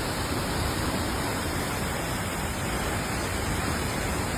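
Steady, unbroken rushing noise, like strong wind blowing across a microphone.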